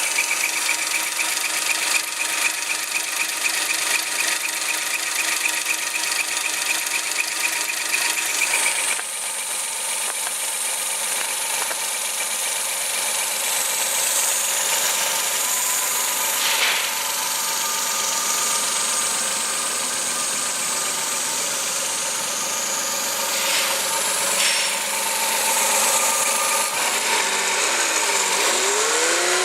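Suzuki K6A 660 cc inline three-cylinder engine idling steadily. A high whine over the idle stops about a third of the way in, and near the end the revs begin to rise.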